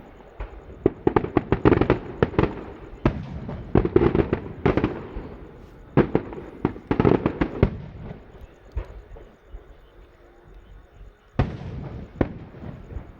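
Aerial fireworks bursting in quick volleys of sharp bangs and crackles. The bangs thin out into a lull of about two seconds, then one more loud bang comes near the end.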